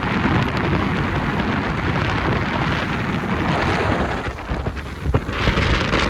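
Wind buffeting the microphone on a moving river boat: a loud, steady rumbling rush that eases slightly about four seconds in.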